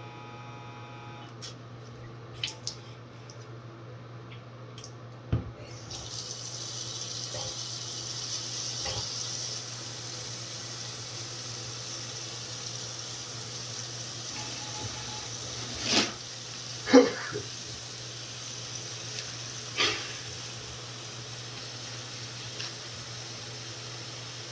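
A few clicks and knocks of handling, then about six seconds in a Navage powered nasal irrigator starts and runs steadily with a watery hiss as its pump draws saline through the nose. A few short sharp sounds come later.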